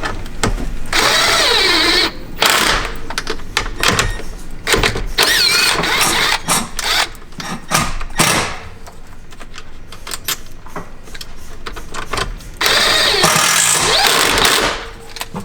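Cordless power driver running in short bursts with a wavering motor whine, tightening the wire terminal nuts onto the jump post, with clicks and clatter of tools and wiring between bursts.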